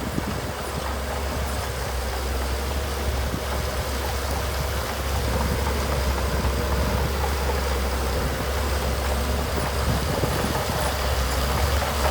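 Heavy earthmoving machine's diesel engine running steadily with a deep low drone, growing a little louder about halfway through.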